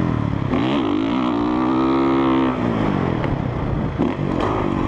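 Honda CRF450R single-cylinder four-stroke dirt bike engine revving for a wheelie fender smack: the pitch climbs soon after the start, holds high, then drops back about three seconds in, settling to a lower rumble.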